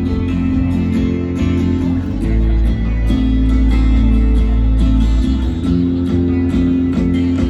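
Instrumental passage of live band music, guitar to the fore over a heavy, steady bass, with no singing.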